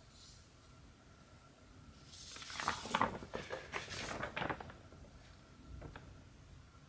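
Rustling and scraping from handling cross-stitch work, a run of quick scratchy strokes for about two seconds in the middle, then a faint click.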